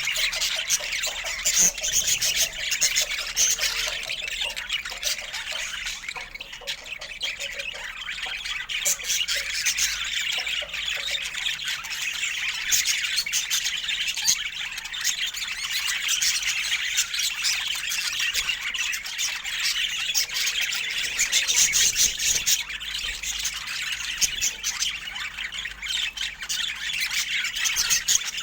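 Budgerigars chattering, a steady stream of short chirps, warbles and squawks.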